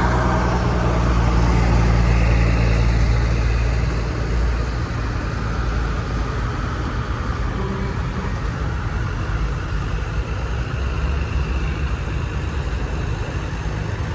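Vintage truck engine running steadily as the truck moves past, loudest in the first few seconds and then lower.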